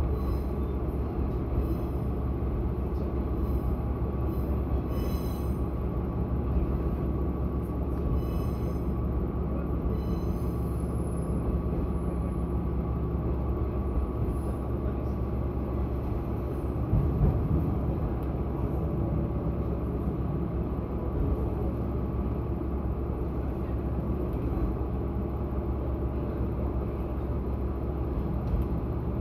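Diesel railcar running along the line, heard from inside the cabin: a steady engine and wheel rumble with a faint hum. A few light clicks come in the first several seconds, and there is a brief louder bump about seventeen seconds in.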